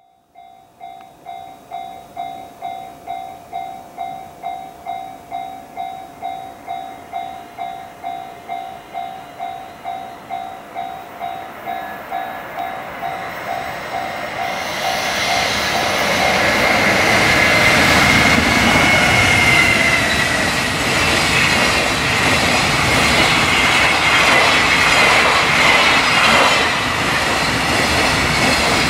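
Level-crossing warning bell ringing at about two strokes a second, then a freight train rushes in and passes at speed. From about halfway through, the train's noise swells and drowns the bell, with a high steady whine over it.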